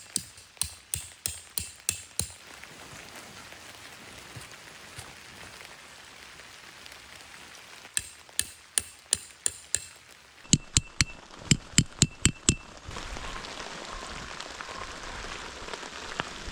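Tent stakes being hammered in: three runs of quick blows, about three a second, the later strikes louder with a faint metallic ring from the stake. Steady rain hiss behind, growing louder near the end.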